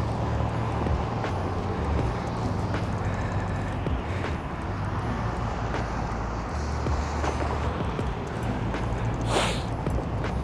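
Strong wind buffeting the microphone as a steady low rumble, over the hiss of a snowy city street, with a brief rushing sound about nine seconds in.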